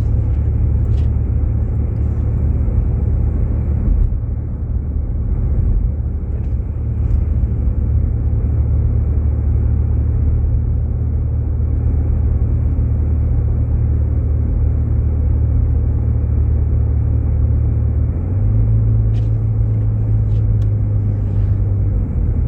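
Steady low rumble of a Jeep Grand Cherokee driving on slushy, snow-covered roads, heard from inside the cabin: engine drone and tyre noise on slush. About eighteen seconds in, the low drone shifts to a slightly higher, steadier note.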